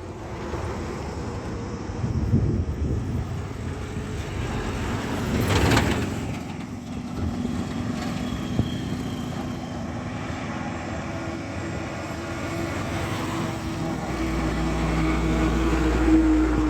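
Highway road traffic: steady vehicle and tyre noise, with a vehicle passing close about six seconds in. Near the end a heavy engine's low drone builds up.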